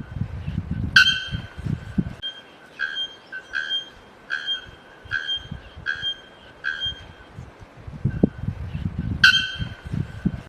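A bird calling a short, repeated note about once every 0.8 s, with two louder notes about a second in and near the end. A low rumble sits under the first two seconds and again near the end.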